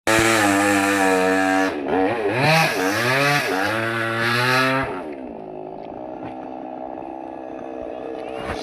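Small petrol chainsaw running at high revs, revved up and down several times, then dropping to a lower, steadier run about five seconds in.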